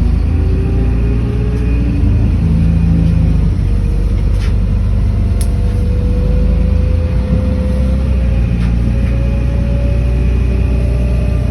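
City bus running under way, heard from inside: a steady low engine and road rumble with a faint whine that rises slowly in pitch as it picks up speed. A couple of brief clicks or rattles occur near the middle.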